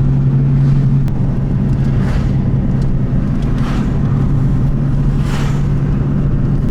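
Car engine running steadily at one constant pitch, a loud low drone.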